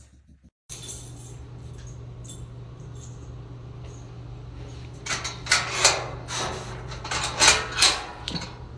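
Steady low hum, then a run of metallic rattles and clatters lasting about three seconds, starting a little past the middle.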